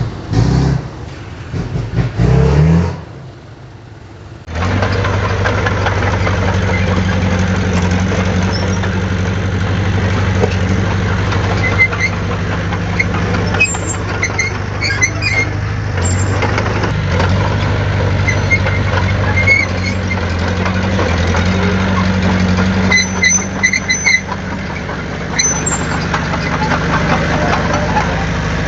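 Heavy diesel engine of earthmoving machinery running steadily, after a short rising rev and a brief drop-off in the first few seconds. A few faint high squeaks come through over it.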